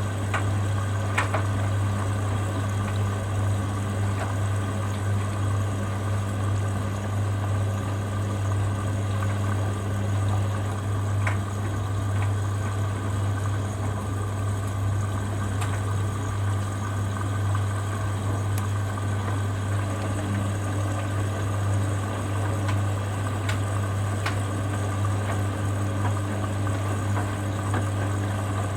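Hoover Dynamic Next washer-dryer early in its wash cycle: a steady hum with water running into the machine and a few faint clicks.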